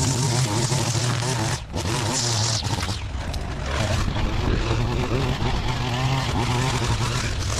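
Small gasoline engine of yard equipment running steadily at working speed, with a brief drop about a second and a half in.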